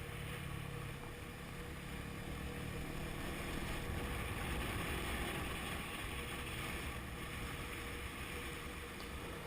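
Honda CB500F's parallel-twin engine running steadily at road speed, mixed with wind rushing over the microphone.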